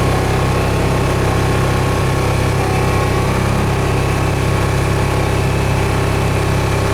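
Tractor engine running steadily at a constant speed, a deep even hum with no change in pitch.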